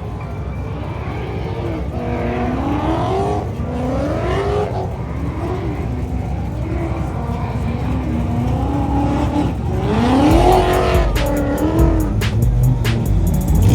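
Drift cars on track, engines revving hard over and over, the pitch climbing and dropping with each throttle blip and shift. About ten seconds in, a louder, deeper engine comes close with a string of sharp cracks.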